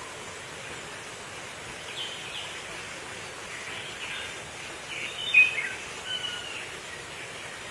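Short bird chirps and whistled notes over a steady hiss of background noise, a cluster of them with the loudest call about five seconds in.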